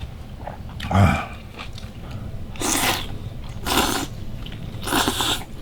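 Udon noodles being slurped: three long slurps about a second apart, after a short lower burst about a second in.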